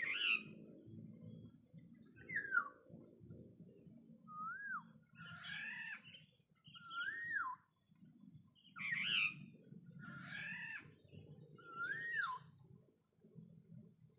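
Black-naped oriole (kapodang) calling: a series of about eight fluty calls one to two seconds apart. Clean rising-and-falling whistles alternate with rougher, more complex phrases.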